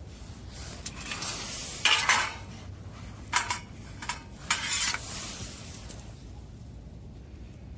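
Metal cookware being handled: scraping and clinking of metal on metal in several strokes, the loudest about two seconds in, then two shorter ones around three and a half and four and a half seconds in.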